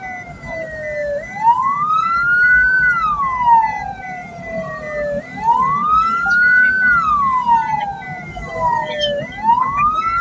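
Ambulance siren wailing, heard from inside the vehicle: a slow rise in pitch, then a longer fall, repeating about every four seconds, three times, over the low rumble of the moving vehicle.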